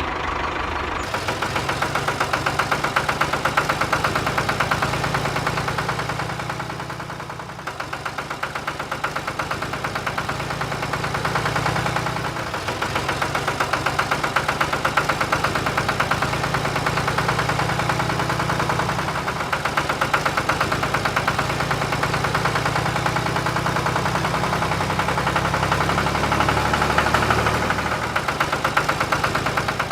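A mini tractor's small engine running with a fast, even firing beat. It eases off briefly twice, about a quarter and about two-fifths of the way in, then picks up again.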